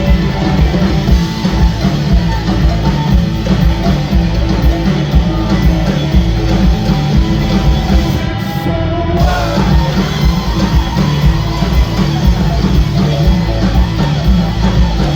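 Live rock band playing loudly, an instrumental passage of guitars, bass and drums.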